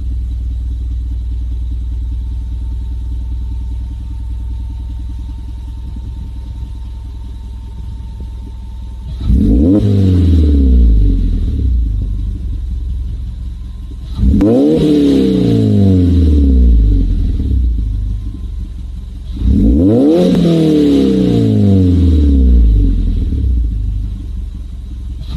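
Suzuki Swift Sport ZC32S's 1.6-litre four-cylinder engine through a Trust GReddy aftermarket exhaust. It idles steadily for about nine seconds, then is revved three times about five seconds apart, each rev rising sharply and falling back to idle.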